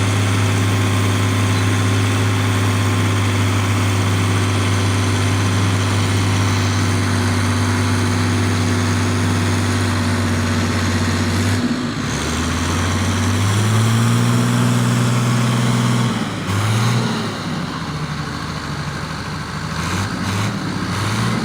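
Large tractor diesel engine working hard in deep mud, holding a steady heavy drone. About twelve seconds in the note drops, then climbs as the engine revs up again, and it rises and falls unevenly near the end.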